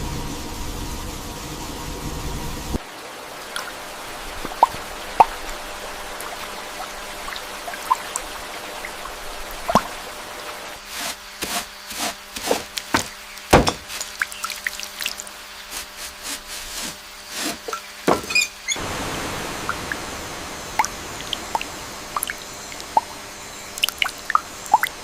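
Liquid dripping: irregular drops and small plops with sharp ticks, coming thickest in the middle stretch. A low rumble underneath stops about three seconds in, and a soft hiss comes in near the end.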